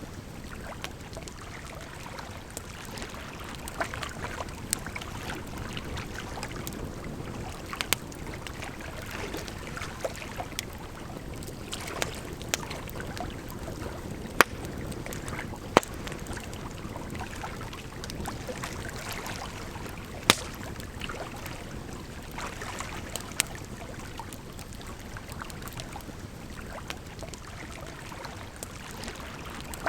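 Campfire crackling, with sharp pops every few seconds, over a steady rush of flowing water.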